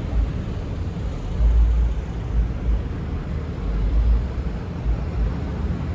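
Road traffic on a busy street: a steady rumble of passing vehicles, with uneven low surges.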